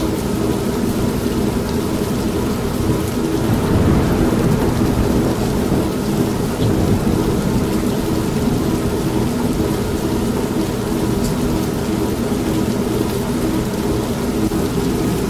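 Steady rain with a low roll of thunder swelling about four seconds in, mixed over the steady hum of an old manual washing machine running.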